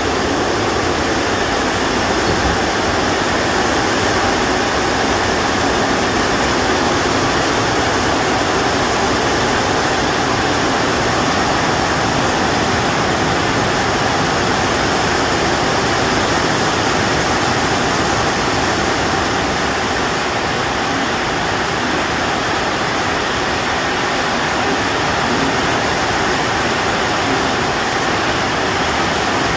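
Heavy downpour drumming on the house roof: a dense, steady roar that holds at the same loudness throughout.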